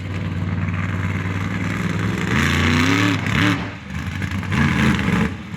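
An engine running steadily, then revving twice, its pitch rising and falling each time.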